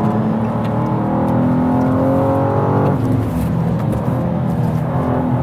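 2023 BMW M2's twin-turbo inline-six under hard acceleration on track, its note climbing in pitch. About three seconds in the pitch drops back and starts rising again.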